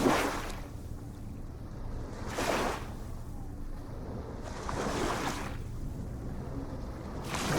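Ocean waves, a surge of surf washing in about every two and a half seconds over a steady low rumble.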